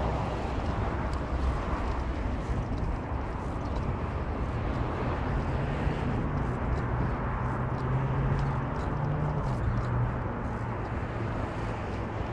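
Car on the move: steady engine and road noise. A low engine note climbs for a few seconds and then drops back about nine and a half seconds in.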